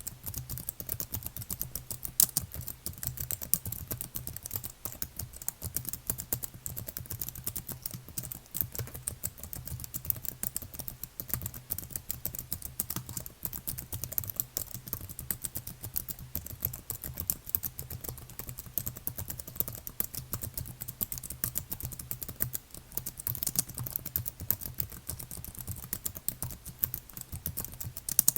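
Continuous typing on a computer keyboard: a dense, unbroken stream of key clicks.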